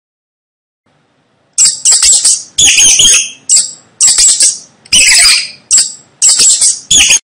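Mouse squeaking: loud, very high-pitched short squeaks in quick clusters. They start about a second and a half in and stop just before the end.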